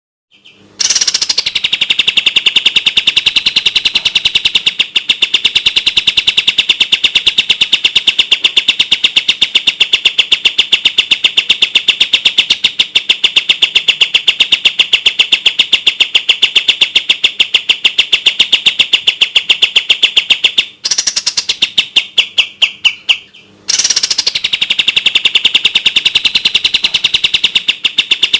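Kapas tembak songbird singing its rapid 'tembak' trill: a long, fast, tightly packed run of repeated high notes. Near the end the run breaks into a brief pause of slower, separated notes, then the fast trill resumes.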